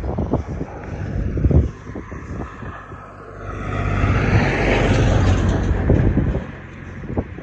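Wind buffeting the microphone during a bicycle ride, with a motor vehicle passing on the road: its sound swells up about halfway through, holds for a few seconds and fades near the end.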